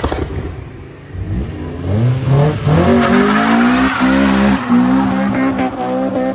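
Honda B16 four-cylinder engine in a Civic EJ9 revving hard under full acceleration. The pitch climbs, drops back once about two and a half seconds in as a gear changes, then climbs again and holds high.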